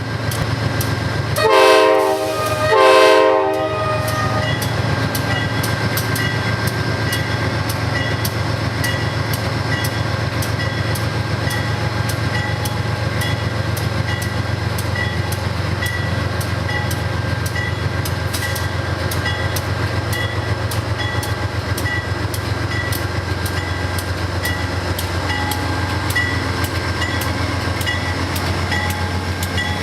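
Train horn sounding two short blasts, then a train rolling past with its wheels clicking steadily over the rail joints above a low, steady rumble.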